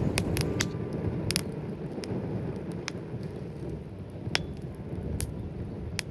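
Wood campfire burning: scattered sharp crackling pops, about one or two a second, over a steady low rush of flames.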